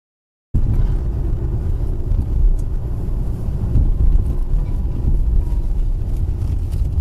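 Steady low road and engine rumble of a moving vehicle, starting abruptly about half a second in.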